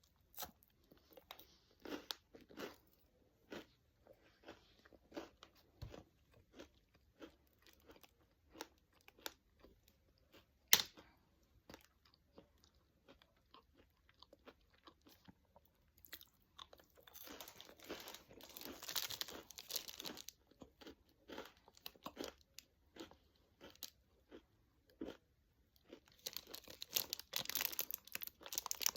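Close-up crunching and chewing of a caramel-dipped pretzel rod: irregular crisp crunches, with one sharp, loud crack about 11 seconds in and busier stretches of crackling later on.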